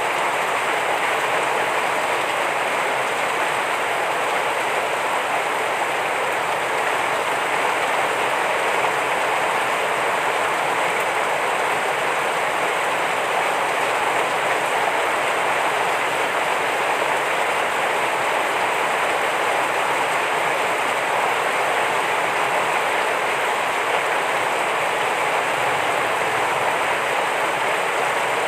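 Heavy rain falling steadily, an even dense hiss with no breaks or single drops standing out.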